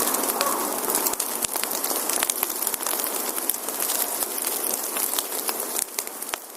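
Wood fire burning with a steady hiss and many sharp crackles and pops, fading down near the end.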